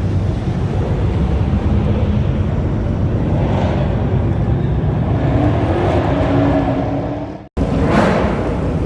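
Car engine running with a low exhaust rumble, its pitch rising slightly as it revs a little. The sound cuts off abruptly about seven and a half seconds in, then engine noise resumes.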